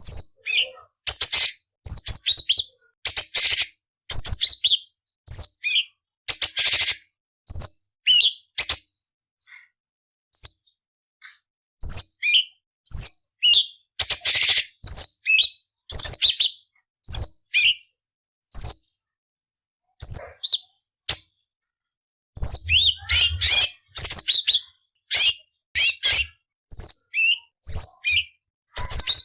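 Orange-bellied leafbird (cucak cungkok) singing: a fast series of short, sharp whistled notes, many sliding down in pitch, broken by harsh, scratchy rasping phrases. The song pauses briefly twice.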